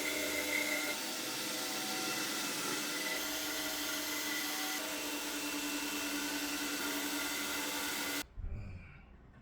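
Electric drill running steadily as it bores into car-body sheet steel; it stops abruptly about eight seconds in.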